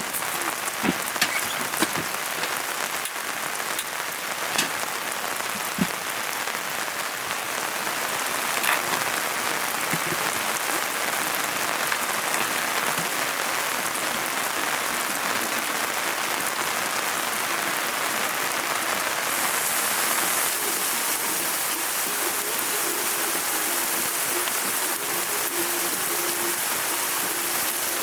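Steady rain falling, an even hiss, with a few sharper drops ticking in the first six seconds.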